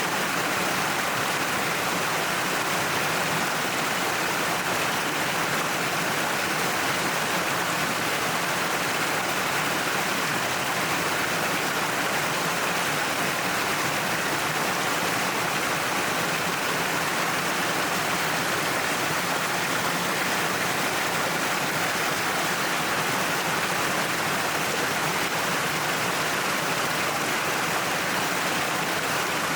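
Waterfall pouring down a cliff: a steady, even rush of falling and splashing water that does not change.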